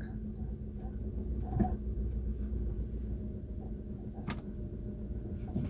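Car cabin noise: a steady low engine and road rumble with a faint hum, and a single sharp click about four seconds in.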